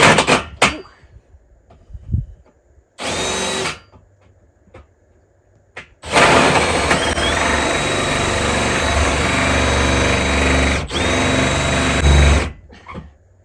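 Power drill spinning a hole saw into steel siding and the wall behind it: a short burst, another about three seconds in, then a long steady run of about six seconds with a brief break near the end. The saw is making slow progress because a piece of the metal siding is stuck in it.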